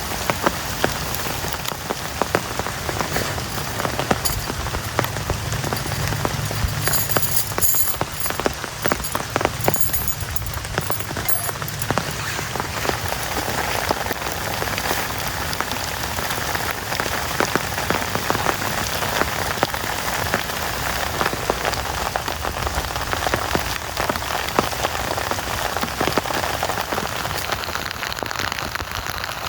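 Heavy rain falling steadily: a dense hiss with many separate drop hits throughout.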